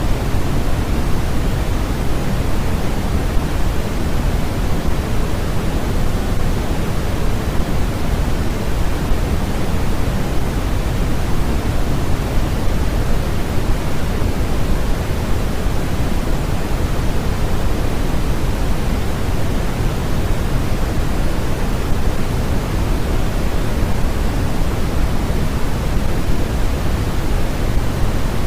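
Steady, unbroken noise from a sleep-noise track: an even hiss weighted toward the low end and thinning in the highs, closer to pink noise than to flat white noise.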